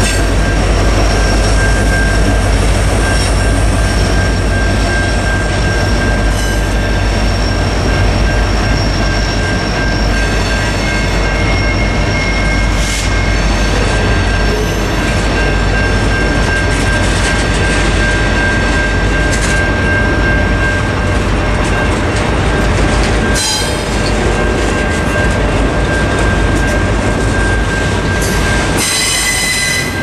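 Norfolk Southern mixed freight train rolling through a level crossing: steady heavy rumble of locomotive and freight-car wheels on the rails. The crossing's Safetran Type 3 electronic bell rings over it, and wheels squeal briefly twice near the end.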